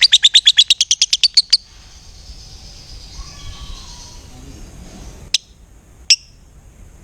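Lovebird giving its long rapid chattering trill ('ngekek'), about ten sharp high notes a second, which breaks off about a second and a half in; two single sharp chirps follow near the end.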